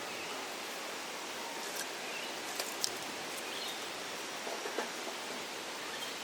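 Steady outdoor hiss of bush ambience, with a few short sharp clicks about two and a half, three and five seconds in.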